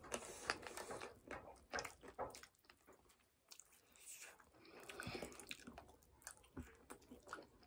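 Two people chewing and biting sauce-coated spicy chicken wings: irregular wet smacks and clicks of lips and mouths, quieter for a moment around the middle.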